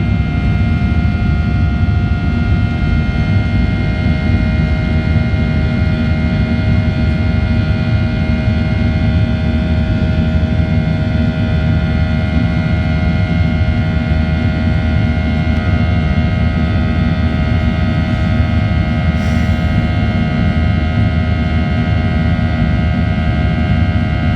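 Cabin noise of a Boeing 737-800 with its CFM56-7B turbofan engines running steadily: a loud, even rumble with several steady whining tones over it.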